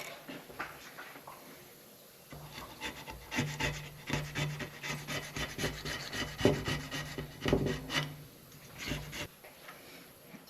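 Razor blade scraping old head-gasket material off an engine's metal gasket surface: a run of short rasping strokes that starts about two seconds in and stops shortly before the end.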